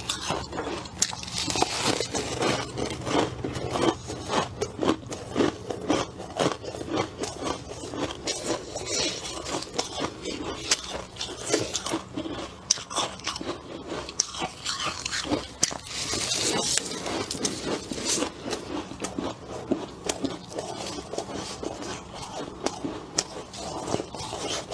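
Close-miked biting and chewing of freezer frost ice: crisp, irregular crunches, several a second, throughout.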